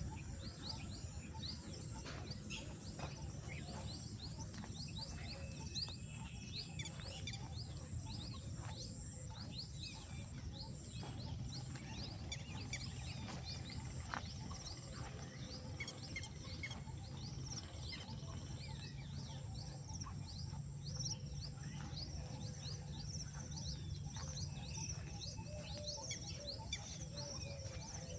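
Many small birds chirping in quick, short notes over a steady high-pitched insect drone, with a low background rumble.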